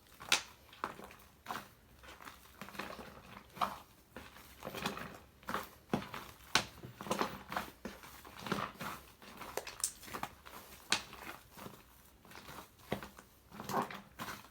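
Hands squeezing and pressing fluffy shaving-foam slime: irregular sticky squelches with sharp little crackling pops, about one or two a second.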